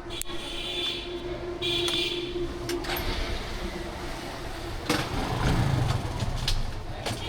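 Motorcycle running on the road, a steady engine hum with street noise, swelling into a louder low rumble about five seconds in.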